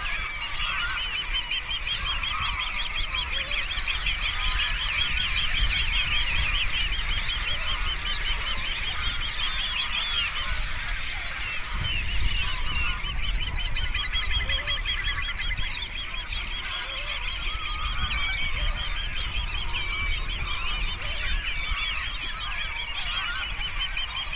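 A large flock of birds calling all at once: a dense, unbroken chorus of overlapping rapid high calls, with a low rumble underneath.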